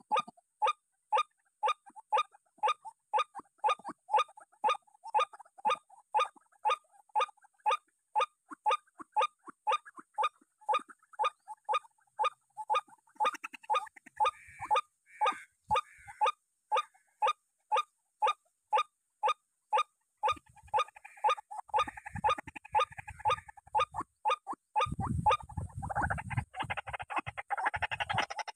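White-breasted waterhen (ruak-ruak) calling: a harsh, short call repeated steadily about twice a second, with some low rumbling handling noise near the end.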